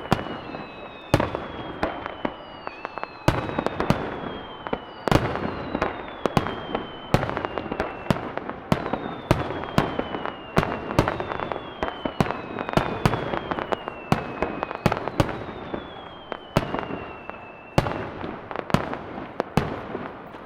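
Dense fireworks barrage: sharp shell bursts several times a second over a continuous crackle, with a string of whistles that each fall in pitch over a second or so.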